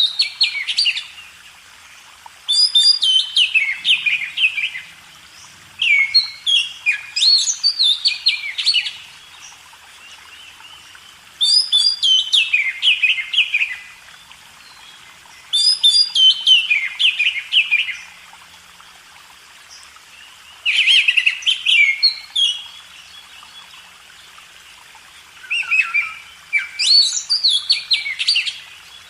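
Oriental magpie-robin (kacer) singing: loud phrases of rapid, falling whistled notes, each phrase lasting one to three seconds and repeated about seven times with short pauses between.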